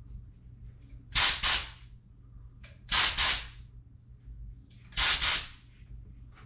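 Air paint spray gun hissing in three short bursts about two seconds apart as the trigger is pulled, spraying thinned silver paint, over a steady low hum.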